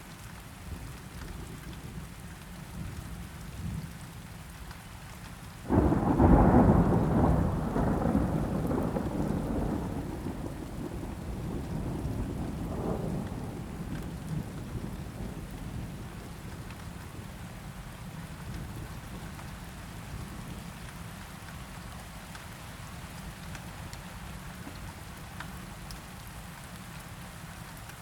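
Steady rain falling, with a loud thunderclap about six seconds in that rumbles on and fades over the next several seconds, swelling once more briefly near the middle.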